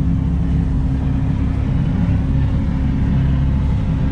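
Tahoe Q5i deck boat's outboard motor running steadily: a constant low drone.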